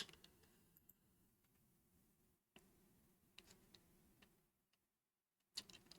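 Near silence: faint room tone with a few scattered, faint, light clicks.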